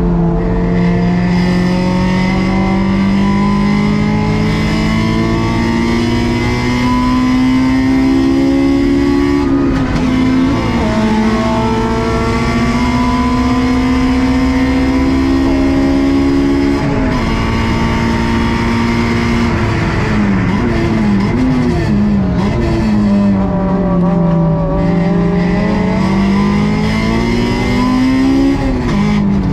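Honda S2000 AP2's stock 2.2-litre four-cylinder engine running hard at high revs. The pitch climbs and drops sharply at upshifts about ten and seventeen seconds in, wavers up and down for a few seconds past the twenty-second mark as the car slows with downshifts, then climbs again toward the end.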